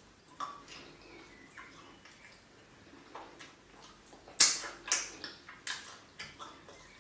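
Close-miked eating sounds: wet mouth smacks and clicks while chewing soupy fish and pounded yam. Soft and sparse at first, with the loudest smack about four and a half seconds in and several more just after.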